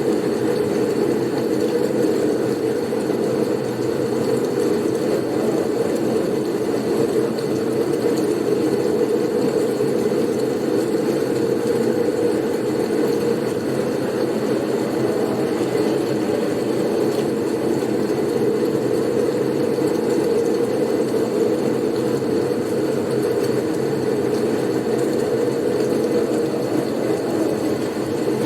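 Blizzard wind, a steady dense rumble with no gusts or breaks.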